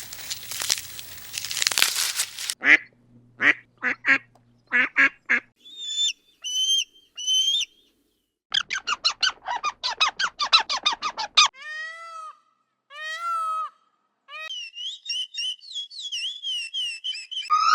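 A run of different animal calls, mostly high-pitched and bird-like: a rushing noisy burst at the start, then clicks, three short chirps, a fast rattling chatter, two rising-and-falling squawks and a trill, each stopping abruptly.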